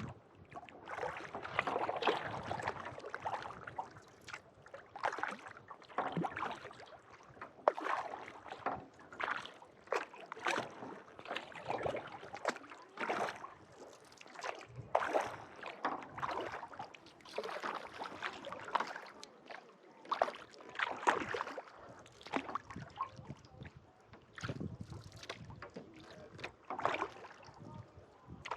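Kayak paddle strokes: blades dipping, pulling and lifting out of calm lake water in a steady rhythm of roughly one stroke a second, each with a small splash and dripping, over faint wind.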